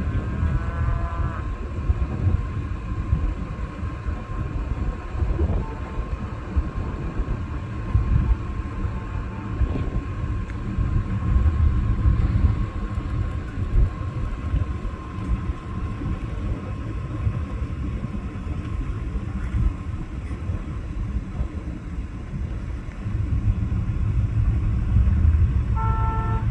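Low, steady rumbling noise from a cattle drive crossing a rural road. A single bending, drawn-out call right at the start sounds like a cow bawling, and short pitched calls come near the end.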